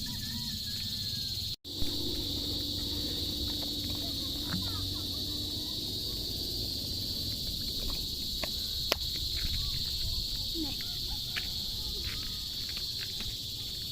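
Steady, high-pitched insect chorus, like crickets chirping, with scattered short chirps and ticks over it. The sound cuts out for an instant about one and a half seconds in.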